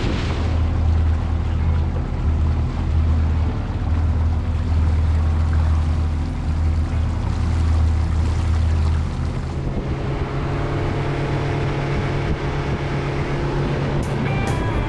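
Motorboat's outboard engine running steadily, with water and wind noise around it. About nine or ten seconds in, the engine note shifts.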